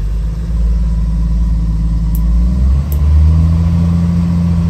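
Jeep YJ 4.0L inline-six running in neutral, its speed stepping up as a hand throttle lever is clicked up notch by notch: the engine note rises about half a second in and again near three seconds, then holds. A few light clicks of the lever's ratchet are heard.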